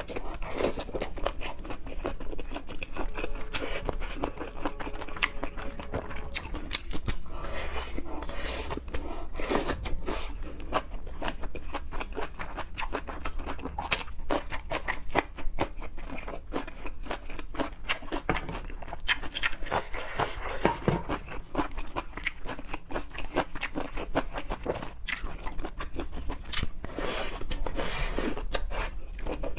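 Close-miked eating of seafood: steady chewing and biting with crunches and many quick, irregular mouth clicks.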